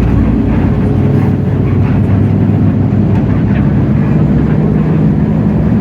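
Hino J08E-VN 7.7-litre diesel engine of a Hino RK8JRVA-KJF city bus running under way, a steady low drone with little change in pitch or loudness, heard from inside the bus.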